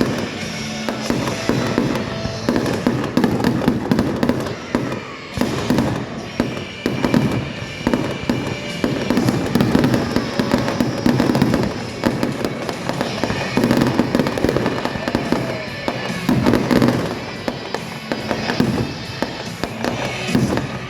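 Fireworks display: shells bursting and crackling in quick, irregular succession, with music playing alongside.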